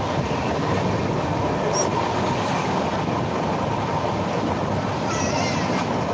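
Passenger train running at speed, heard from inside the coach: a steady rumble and rattle of the wheels on the rails.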